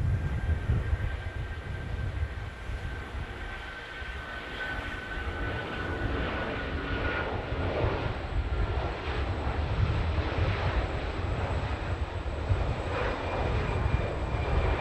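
Jet airliner passing close by: a deep, rough engine rumble with a high whine that slowly falls in pitch over the first half, and a new high whine near the end.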